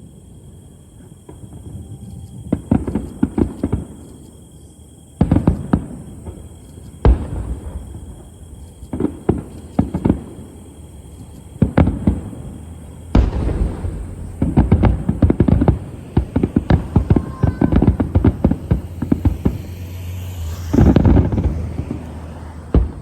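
Fireworks display: shells bursting in quick clusters of sharp bangs and crackles, starting a couple of seconds in and coming thicker and faster in the second half.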